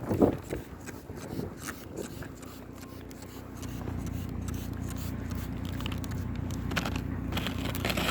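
Ice scraper scraping ice off a window in a quick series of short strokes. A steady low rumble grows underneath from about halfway.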